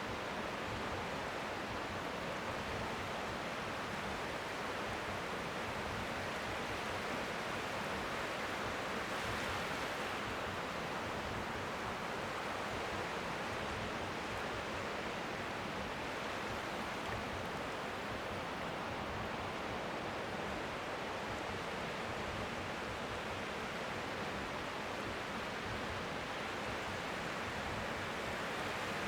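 Strong wind blowing past the shore, making a steady hiss like white noise, with gentle waves faintly lapping underneath.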